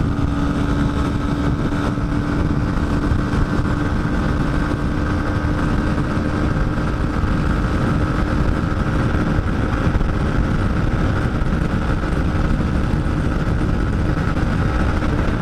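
Dafra Next 250's single-cylinder engine held at high revs during a top-speed run, a steady drone that barely changes in pitch, over heavy wind rush on the microphone.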